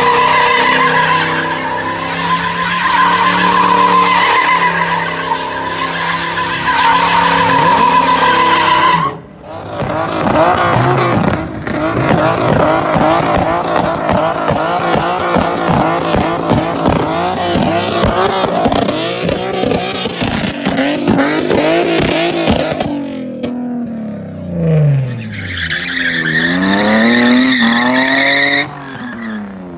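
Car engine revving hard with tires squealing, as in burnouts or donuts. The sound breaks off abruptly several times. Near the end the engine pitch falls and then climbs again.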